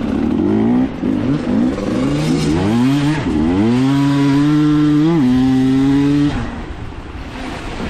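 Dirt bike engine revving in short blips, then pulling up through the revs and held high for a couple of seconds before the throttle shuts off suddenly about six seconds in.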